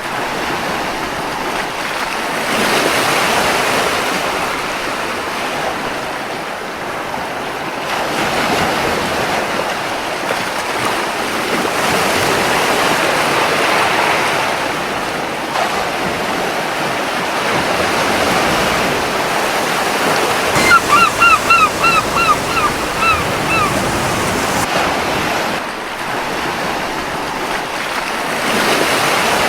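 Surf washing onto a beach in slow swells, steady and fairly loud. About two-thirds of the way through, a seagull gives a quick run of about eight short, sharp calls over some three seconds.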